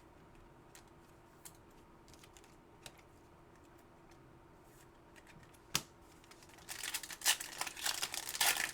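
Trading-card pack wrapper being torn open and crinkled, with the cards handled. Quiet with a few faint ticks at first, a sharp click about six seconds in, then dense crinkling and tearing over the last couple of seconds.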